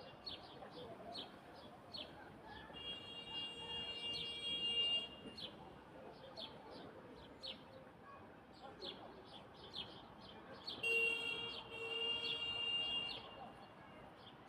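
Birds calling: a short high chirp repeated about twice a second, joined by two longer, steady, high calls, one about three seconds in and a louder one about eleven seconds in.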